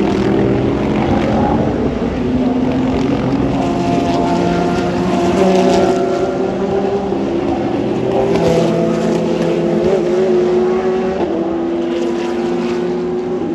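Several race car engines running at once at racing speed, their notes climbing steadily as they accelerate. Now and then a note breaks and drops back for a gear change.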